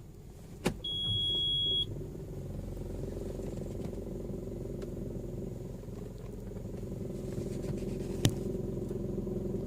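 Toyota Vios running: a sharp click, then a steady high beep lasting about a second, then a steady low drone of engine and road noise, with another single sharp click near the end.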